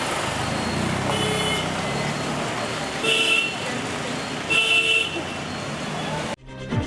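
Road traffic running steadily, with a vehicle horn tooting three short times. About six seconds in the street sound cuts off abruptly and music starts.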